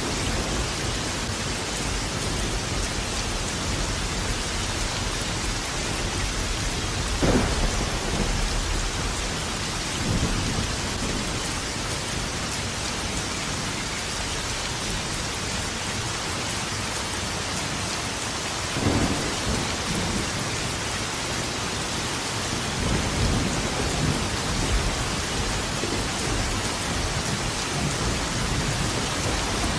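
Steady heavy rain falling, with thunder rumbling through it several times: low rolls about a quarter of the way in, again just past the middle, and a sharper clap near the end.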